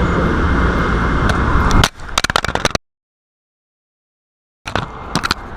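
Steady background noise, then about two seconds in a rapid clatter of knocks as a GoPro camera falls from its broken mount. The sound cuts to total silence for nearly two seconds, and a few more knocks follow before the steady noise returns.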